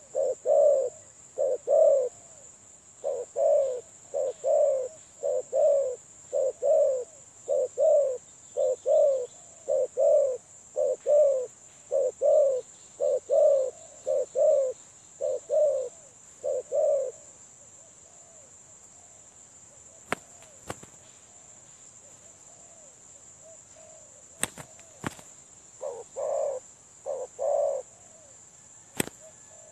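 Spotted dove (tekukur) cooing in a long, even series of short low coos, about one and a half a second. It falls silent for several seconds, then gives three more coos near the end. A few sharp clicks sound during the pause, over a steady high-pitched hum.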